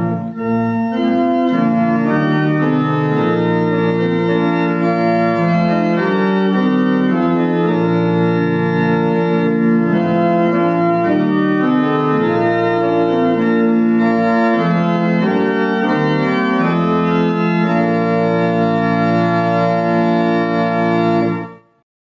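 Organ playing a slow passage of sustained chords that change step by step, cutting off suddenly near the end.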